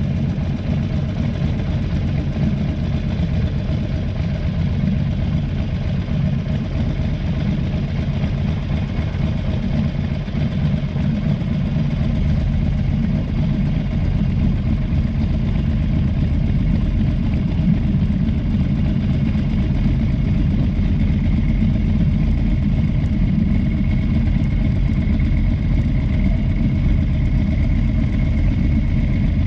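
Motorcycle engine running steadily with a low rumble, and a thin high whine joining about two-thirds of the way through.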